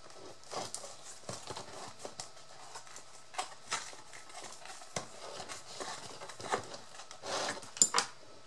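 A hole being punched in a craft piece by hand, with scattered light clicks and rustling as the piece is handled. Two sharp clicks near the end are the loudest.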